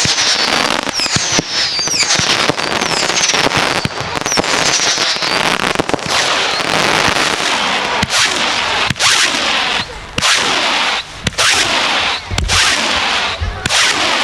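Firework barrage cake firing a rapid volley. Dense crackling runs throughout, with many short falling whistles over the first half, and sharp bangs break through with brief gaps later on.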